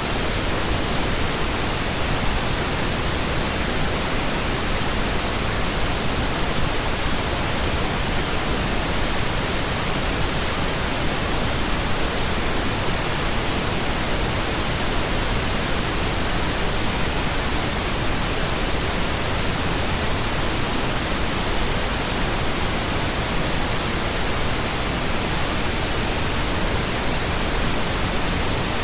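Steady pink noise: an even, unchanging hiss with no tones or rhythm.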